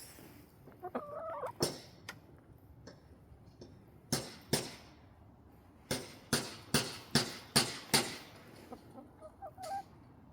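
Domestic hens clucking softly, one short call about a second in and another near the end. Between the calls comes a run of sharp taps, six of them evenly spaced in quick succession.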